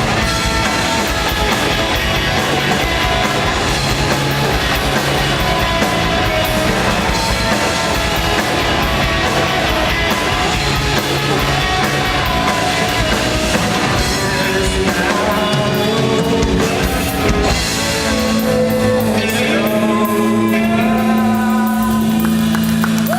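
Live rock band with electric guitars, drum kit and a singer. In the last few seconds the band holds a sustained final chord under the vocal line.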